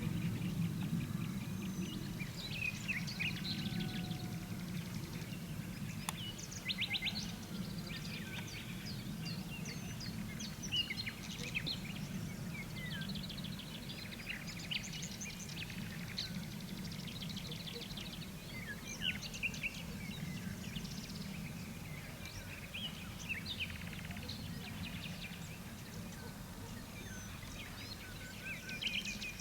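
Several songbirds chirping and trilling in the morning dawn chorus, many short calls overlapping, over a steady low background rumble.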